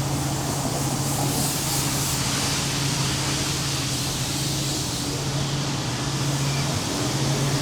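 High-pressure car wash spray hissing steadily over the constant hum of the pump.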